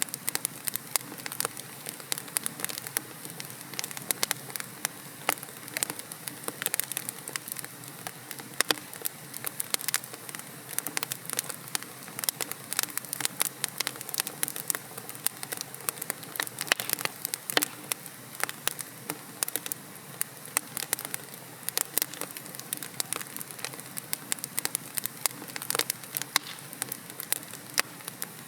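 Wood logs burning in a fireplace, crackling and popping irregularly over a steady soft hiss.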